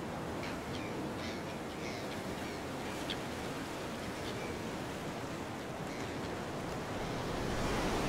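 Surf washing over coastal rocks as a steady rush, with a few short, high bird calls in the first half, several in quick succession. The surf grows louder near the end.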